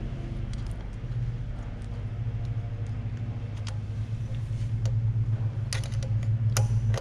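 Steady low drone of a lawn mower engine running, with scattered light clicks and clinks of hand tools and bolts, a quick cluster of them near the end.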